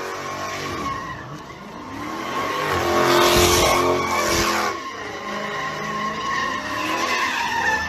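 Car engine revving up and down while the tyres squeal in a skid, loudest about three to four and a half seconds in.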